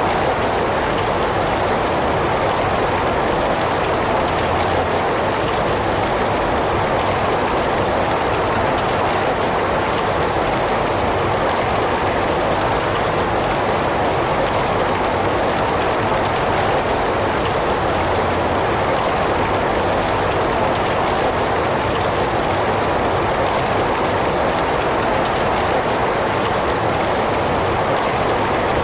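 Heavy rain falling in a steady, unbroken hiss with no single drops or thunder standing out.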